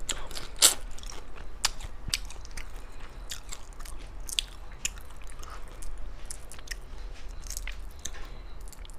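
Close-up eating of spicy shrimp: crunching and cracking of shell, with wet chewing between, as a run of short sharp clicks, the loudest crack about two-thirds of a second in.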